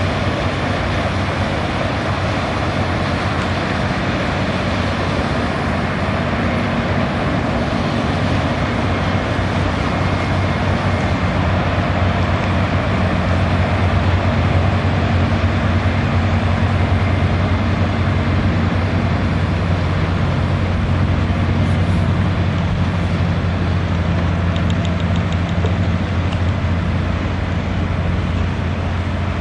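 An engine running at a steady speed: a continuous low drone under a constant rushing noise.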